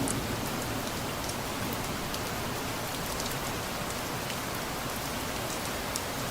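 Steady rain falling, an even hiss with scattered sharp drops and drips ticking through it.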